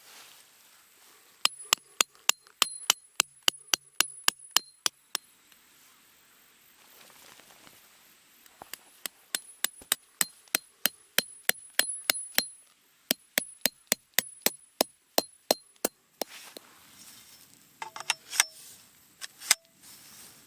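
Rapid hammer blows on metal, about five a second, each with a short high ring, in two long runs. Near the end come a few heavier, irregular knocks with a lower ring.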